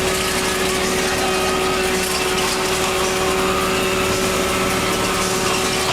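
Fishing boat machinery running steadily, a constant engine-like hum with a fixed pitch and no changes.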